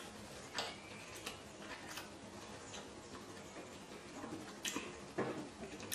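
A person chewing a mouthful of sushi close to the microphone, with a handful of soft, scattered mouth clicks.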